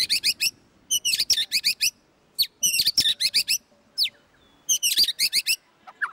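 White-rumped shama singing: about five quick bursts of rapid, high-pitched whistled notes, each under a second, with short pauses between them.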